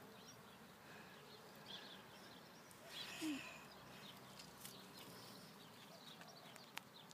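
Quiet outdoor ambience with a few faint, short bird chirps and a brief louder sound about three seconds in.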